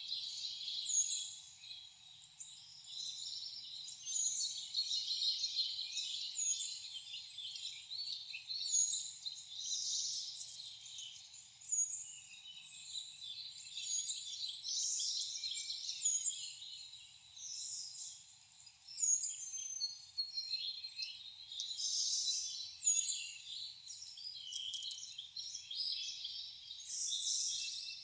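Mixed chorus of wild songbirds chirping and singing without a break, with one short, high note repeating every second or two.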